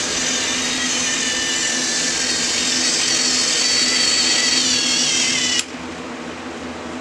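Battery-powered Trackmaster toy train's small electric motor and gearbox whirring with a wavering high whine as the locomotive runs, cutting off suddenly about five and a half seconds in.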